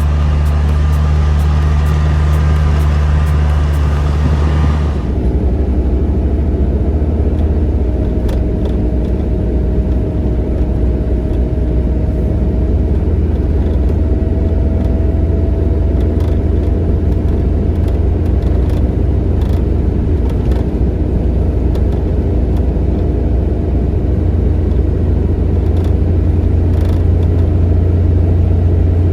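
Steady low rumble of a vehicle driving, changing abruptly about five seconds in, with a faint tone slowly rising in pitch after that.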